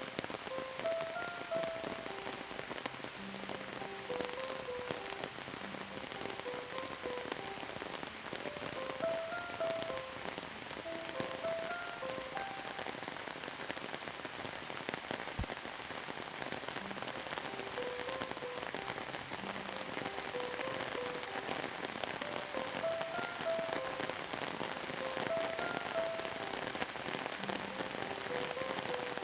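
Steady rain falling on a surface, a dense even patter. A slow melody of short pitched notes plays over it.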